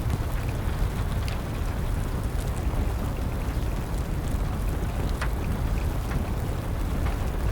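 Wood fire crackling with scattered sharp pops over steady rain and a low rumble.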